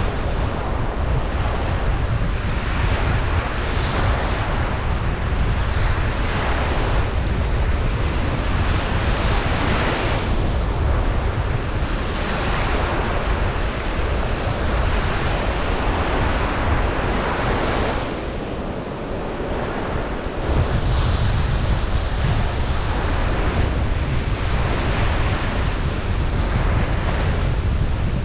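Ocean surf breaking and washing onto a beach, a steady wash of noise that swells and eases every couple of seconds. Wind rumbles on the microphone beneath it, dropping out briefly about two-thirds of the way through.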